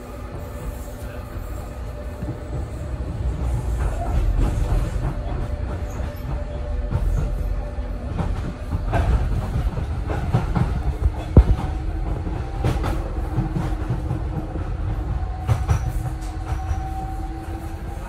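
Docklands Light Railway train running on its track: a steady low rumble with scattered clicks and knocks from the wheels, one sharp knock about two-thirds of the way through. A faint whine rises slowly in pitch near the end.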